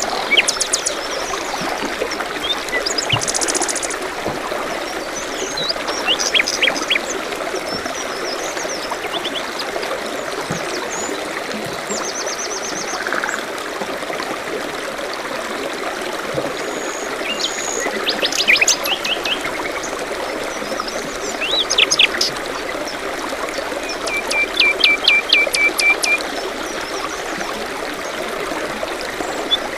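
A small stream running steadily, with songbirds chirping and trilling over it in short, scattered phrases. There is a rapid run of repeated notes near the end.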